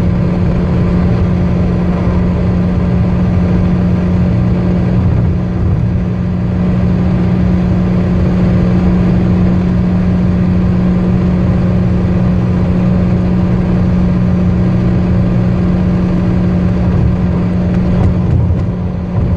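Car engine running at a steady high speed: one strong, constant engine tone over a dense low rumble of road noise, holding nearly level throughout.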